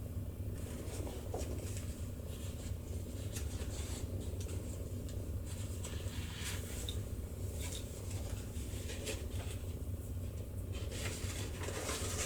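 Faint rustling and scratching of paper leaf cutouts and string being handled and untangled, over a steady low hum.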